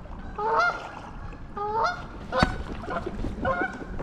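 Goose honking three times with short, rising calls, disturbed near its nest as kayaks pass. A single sharp knock comes about two and a half seconds in.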